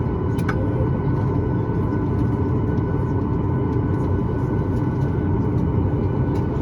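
Boeing 737-9 MAX cabin noise: a steady low rumble from the engines at idle, with a thin steady whine above it. A faint click comes about half a second in.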